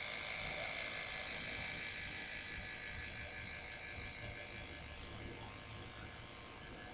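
Small electric air pump switched on abruptly and running with a steady buzzing drone, pressurizing a 2-liter bottle rocket before launch. The sound eases off gradually toward the end.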